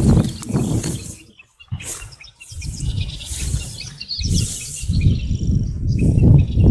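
Small birds chirping and twittering in the open, over loud low rumbling that comes in swells, strongest in the second half.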